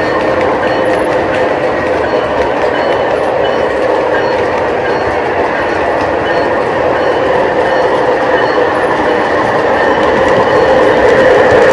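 O gauge model trains running on the layout's track: a steady noise of metal wheels on rail and motors, growing louder near the end.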